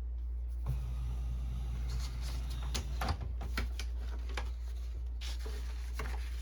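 Canon Pixma inkjet printer mechanism running during a test print after its black cartridge was primed. A motor starts whirring about a second in, with a string of clicks and knocks from the carriage and paper feed.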